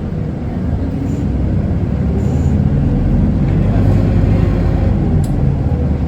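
Isuzu Erga city bus's turbo-diesel four-cylinder engine pulling away and accelerating, heard from inside the passenger cabin; the engine note climbs and grows louder over the first four seconds, then holds steady.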